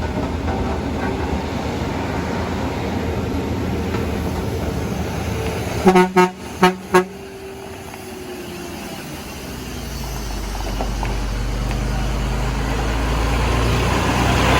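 Vehicle engine noise, then a vehicle horn honking four short times in two quick pairs, about six seconds in. Afterwards a low engine sound builds steadily louder.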